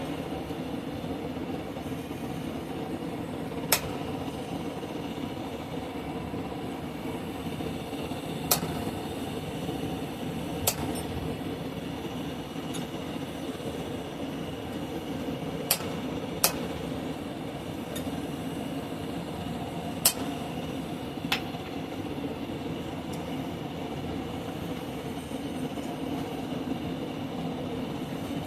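Hammer striking a hot cut chisel on mild steel: seven sharp, metallic clinks, single and spaced seconds apart, over a steady rushing background noise.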